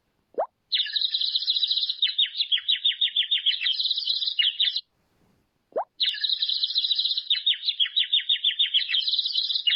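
A bird calling in two bouts of rapid, high, chattering notes, each about four seconds long and each preceded by a short rising sweep.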